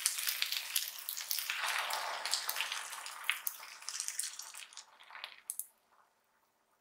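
Chicken wings sizzling in hot fat in a frying pan, a steady hiss full of small crackles and pops. It dies away about five and a half seconds in, leaving near silence.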